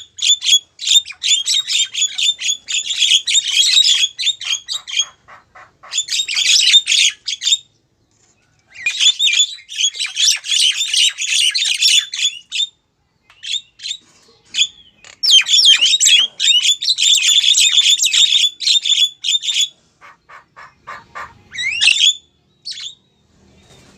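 Female Javan myna calling: rapid chattering in phrases a few seconds long with short pauses between them, breaking up near the end into scattered single notes and a quick rising note. It is the call a female uses to draw in a male.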